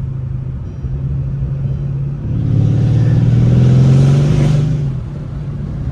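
Mercedes W218 CLS550's twin-turbo V8 with aftermarket downpipes running at a steady cruise, then accelerating hard about two seconds in, the engine and exhaust note rising and getting louder for about two and a half seconds before easing back to a cruise.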